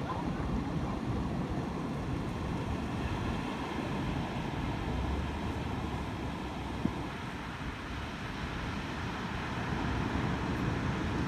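Steady wash of surf on a beach, with wind buffeting the microphone in low rumbles.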